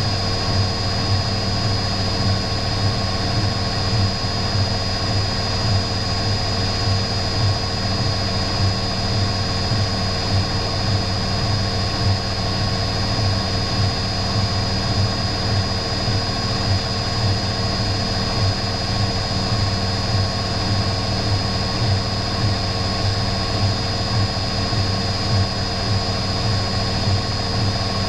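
Electrolux EW6S404WU washing machine running steadily: an even motor hum with a thin, high whine over it.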